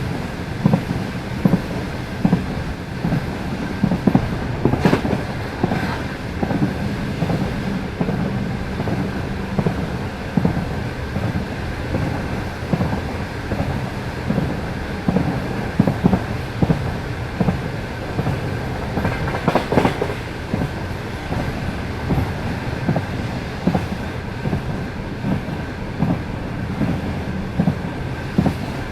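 Passenger train wheels clattering rhythmically over the rail joints at speed, over a steady low rumble of the moving carriage.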